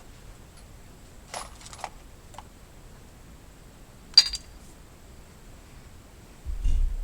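A few light metallic clinks, the sharpest a short ringing clink about four seconds in, then a low thud near the end.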